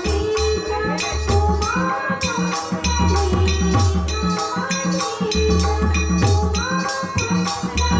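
Marathi bhajan music: a quick, steady beat of hand-drum strokes and jingling percussion under a held melody.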